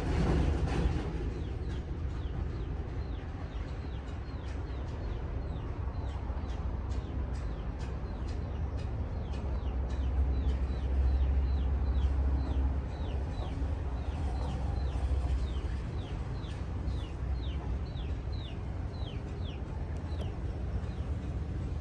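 Repeated short, high-pitched peeps from a small animal, each falling in pitch, about two to three a second, over a low rumble.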